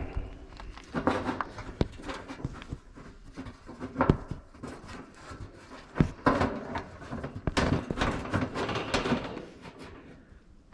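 Clattering and knocking of metal work on an AC unit, irregular clicks and rattles with busy stretches about a second in and again from about six to nine seconds.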